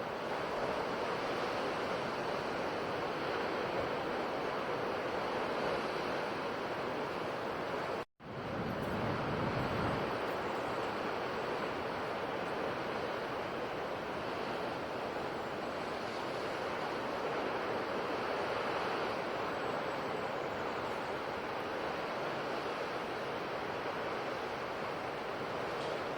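Ocean waves washing onto a shore: a steady rushing surf. About eight seconds in it cuts out to silence for an instant, then resumes with a low swell.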